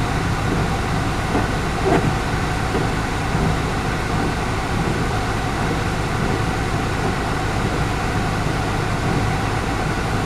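Union Pacific mixed freight train's cars rolling past, a steady rumble of wheels on rail, with one brief louder knock about two seconds in.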